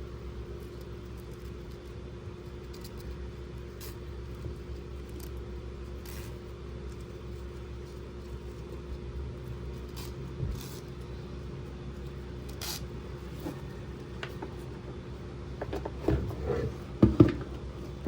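Steady low background hum with a few faint clicks, then a short clatter of louder knocks about sixteen seconds in, as toy playset pieces are handled.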